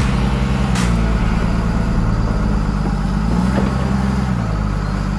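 Heavy vehicle engine running, its pitch rising and falling once about the middle. A short hiss of air comes near the start.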